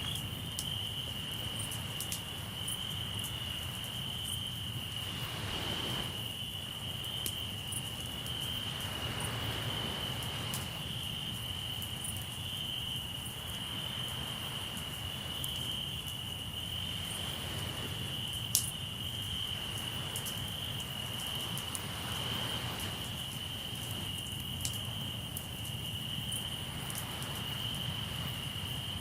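Crickets chirping in a steady high chorus over a crackling campfire, with scattered small pops and one sharp pop about two-thirds of the way through. Waves wash in every few seconds beneath.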